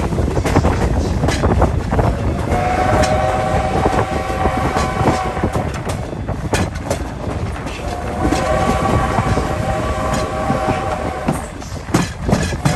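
Steam whistle of Strasburg Rail Road No. 90, a 2-10-0 steam locomotive, sounding two long blasts, with a third starting near the end. Under it, the coach rumbles and the wheels click over the rail joints.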